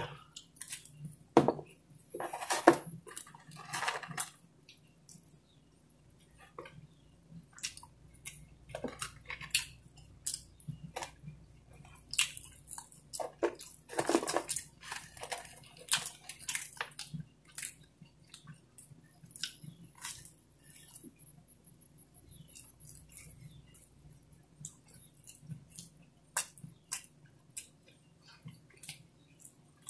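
A person chewing pizza close to the microphone: wet mouth sounds with many small clicks and smacks, and a few louder bites and rustles about two to four seconds in and again around the middle.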